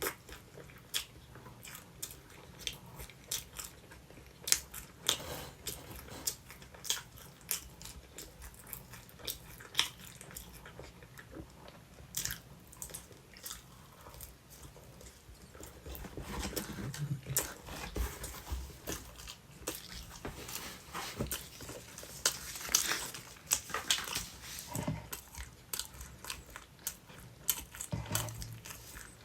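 A person biting and chewing sweet potato pizza, with many sharp crisp clicks of bites and chews. The chewing grows denser and louder about halfway through.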